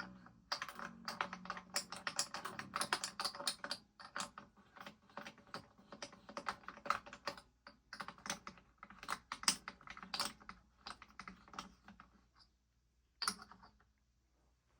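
Rapid, irregular clicking and light rattling of guitar hardware and slack strings being worked as the old strings come off a baritone guitar. The clicking stops shortly before the end, and one knock with a brief low ring follows.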